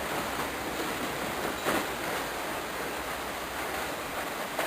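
Steady rushing background noise, with one light click about a second and a half in.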